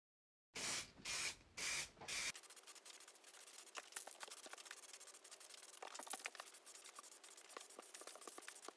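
Three short hissing bursts, then a steady scratchy rubbing with many small clicks, the sound of abrasive hand work on a part.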